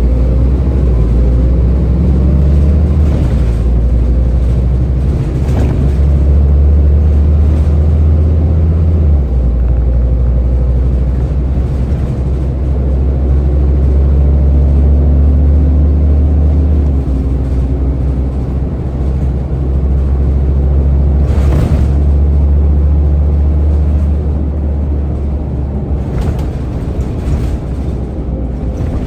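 Scania N230UD double-decker bus's diesel engine and ZF automatic gearbox heard from on board, a steady low drone under way. The drone shifts in pitch twice, as the gearbox changes gear. A few short clunks and rattles come from the body.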